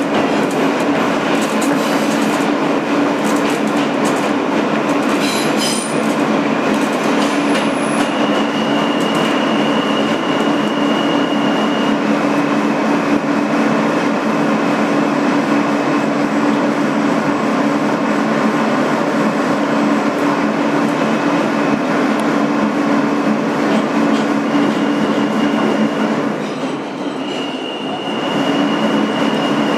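Kawasaki R160B subway car running between stations, heard from inside the car: a steady rumble of wheels on the rails with a low hum. A high steady whine comes in about 8 seconds in for a few seconds and again near the end. The noise eases briefly just before the second whine.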